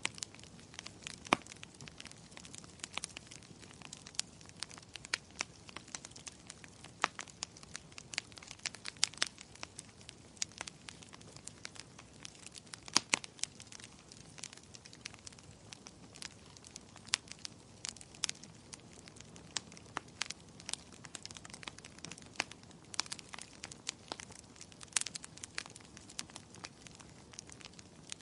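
Fireplace fire crackling: irregular sharp pops and snaps over a soft, steady hiss, with a few louder snaps scattered through.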